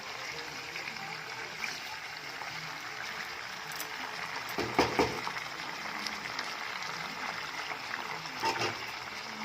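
Chicken pieces sizzling steadily in hot mustard oil in a kadai. Short knocks of a utensil against the pan come about five seconds in and again near the end.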